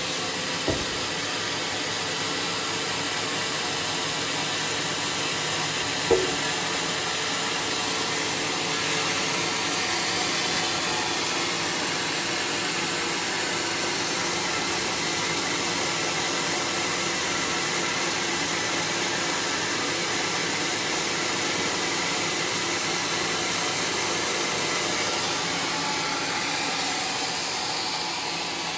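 Sawmill machinery running steadily, a continuous noisy hiss with no change in pitch, broken by a faint knock near the start and a sharper knock about six seconds in.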